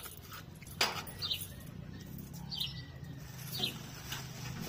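Small birds chirping in short high calls about once a second, with one sharp knock a little under a second in.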